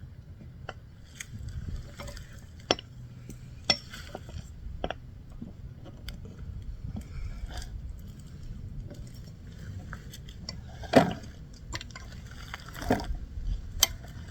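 Scattered clinks and knocks of mini bike parts being handled while the rear wheel is fitted, with a louder knock about eleven seconds in and a few more near the end.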